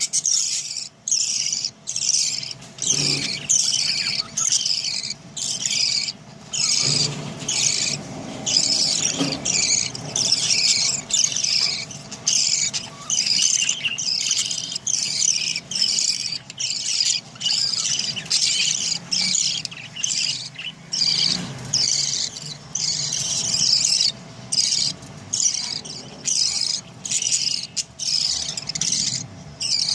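Budgerigars chirping in a steady run of short, high chirping bursts, a little over one a second, with brief gaps between them.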